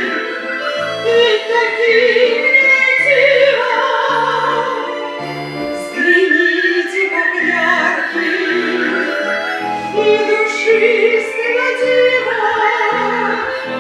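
Live performance of a romance: a woman singing in a classical style with wide vibrato over a simple instrumental accompaniment of low bass notes.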